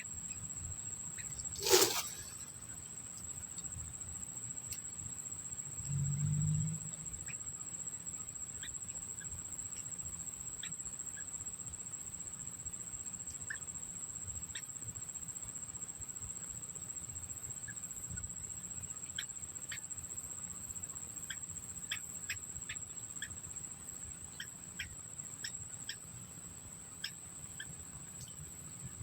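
Steady high-pitched cricket-like trill with scattered short, high chirps from small birds, which come more often in the second half. A sharp click sounds about two seconds in, and a low thud around six seconds.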